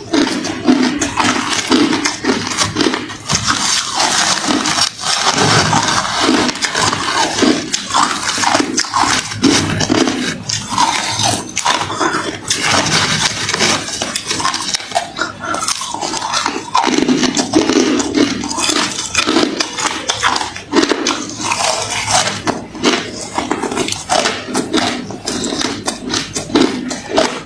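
Close-up crunching and chewing of hard refrozen crushed ice: dense, continuous crackling cracks as the ice is bitten and ground between the teeth.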